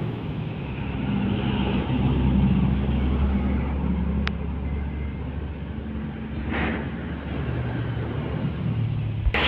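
Road traffic passing close by: heavy vehicle engines running with a steady low rumble, and a vehicle rushing past about six and a half seconds in.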